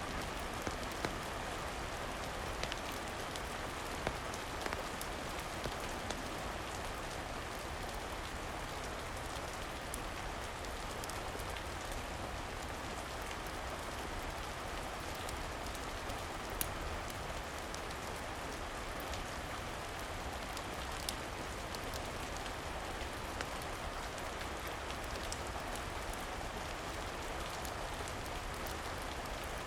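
Steady rain falling, with scattered sharp little clicks every few seconds.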